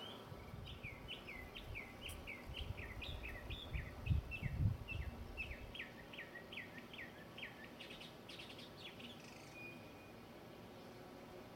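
A songbird sings a long run of clear, slurred whistled notes, two or three a second, changing note type every few notes, and stops about nine seconds in. Under it is a low rumble, loudest about four to five seconds in.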